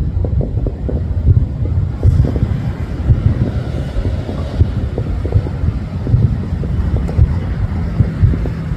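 Wind buffeting the microphone: a loud, uneven low rumble with irregular thuds.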